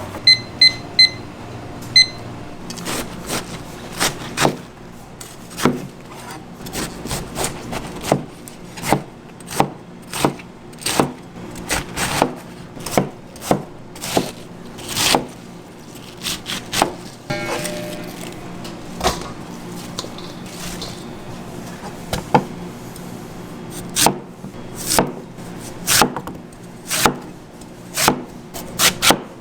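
Knife chopping on a wooden cutting board, with irregular sharp chops about one or two a second. Soft background music plays under it, and a few short electronic beeps sound in the first two seconds.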